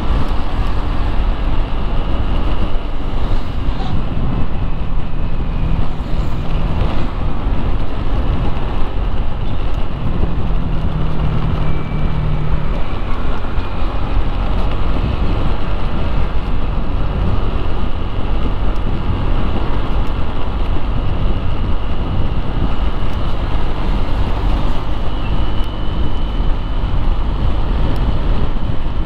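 Motorcycle ride through street traffic: the engine runs steadily under a constant low rumble of wind on the microphone, with surrounding traffic.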